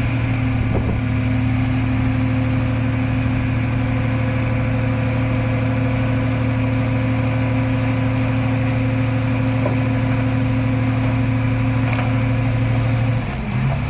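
Heavy diesel engine of a bulldozer or dump truck running steadily at a constant speed, its note holding unchanged until it breaks up about a second before the end.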